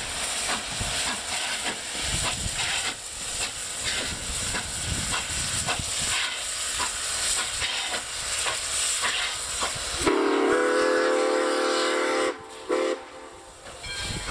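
Steam locomotive No. 93 passing with a steady hiss of steam, then its chime whistle sounds: one long blast about ten seconds in, followed by a short blast.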